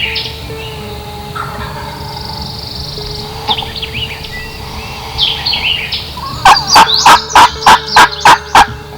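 Wild turkey calling: a run of about eight loud, evenly spaced yelping notes, about four a second, near the end. Songbirds chirp in the background.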